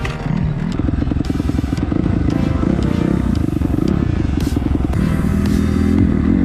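Suzuki RM-Z250 dirt bike's four-stroke single-cylinder engine running under throttle, its pitch rising and falling as the rider rolls on and off.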